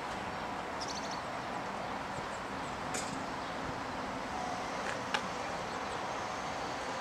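Electric multiple unit approaching slowly along the platform: steady running noise from the train, with a couple of sharp clicks and faint bird chirps.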